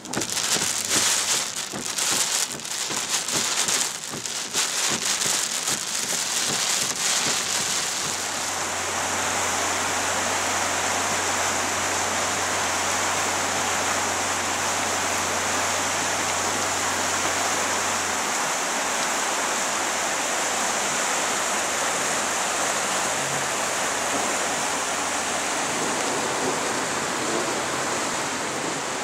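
Heavy rain and rushing flash-flood water making a loud, steady rush. For the first several seconds irregular sharp hits, like raindrops striking close by, patter over it. A low steady hum underneath stops about two-thirds of the way through.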